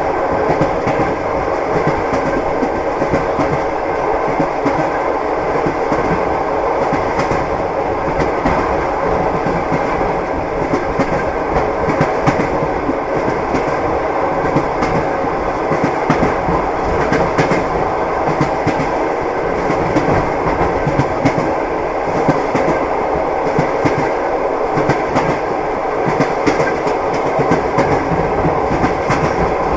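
Passenger train wheels clicking over the rail joints at running speed, heard from inside the carriage: a steady rumble with a clickety-clack of repeated knocks.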